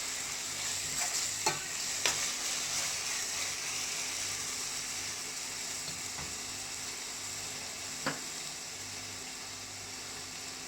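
Onions and ginger-garlic paste sizzling in hot oil in a pan, being sautéed. A spoon knocks against the pan a few times while stirring, twice early and once near the end.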